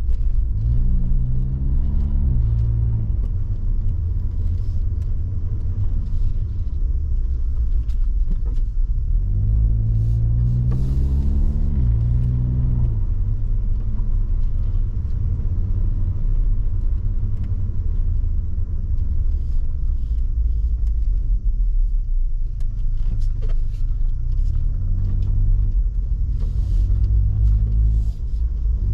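Suzuki Jimny driving on the road, heard from inside the cabin: a steady low road and engine rumble. The engine note climbs in pitch as the car speeds up three times: about a second in, around ten seconds in, and near the end.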